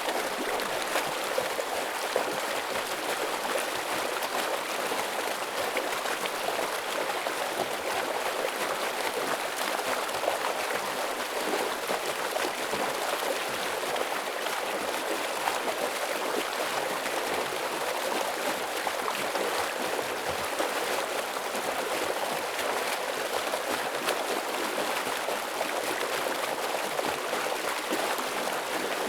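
Heavy stream water flowing steadily: a constant, even rushing of water.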